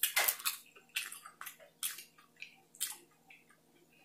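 Close-up chewing of a bite of breaded, pan-fried snow crab, about two chews a second, fading toward the end.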